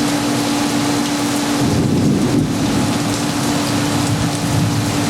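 Heavy rain falling steadily, a dense even hiss with a faint steady hum under it and a low rumble swelling about two seconds in.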